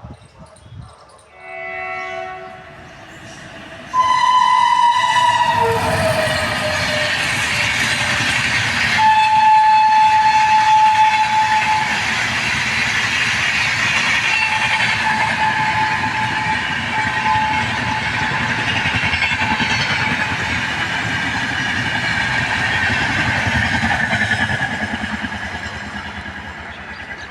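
Indian Railways train horn sounds briefly, then loudly as the train arrives about four seconds in, its pitch dropping as the locomotive passes. The train then runs past close by for the rest, a dense steady noise of wheels on rail with a high steady tone ringing through at times.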